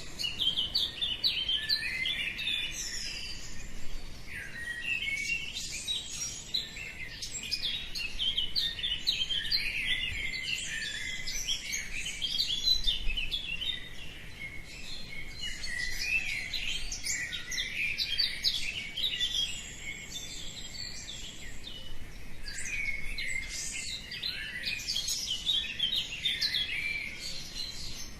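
Many small birds chirping and singing at once in a dense, continuous dawn chorus of rapid twittering calls.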